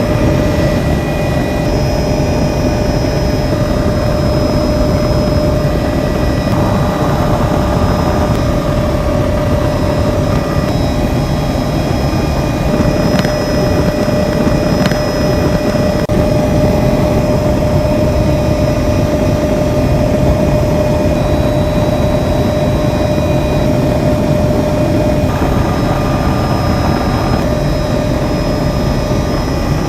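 Helicopter in flight: steady engine and rotor noise with a constant high tone running through it.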